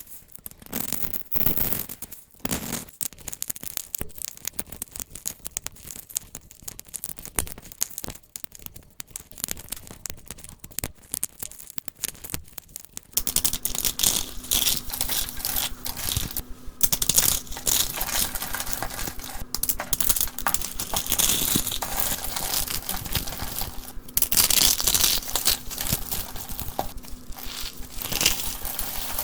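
Dry soap being cut and crushed by hand: sparse scrapes and clicks at first, then from about halfway a denser, crisp crunching and crackling as the brittle soap crumbles.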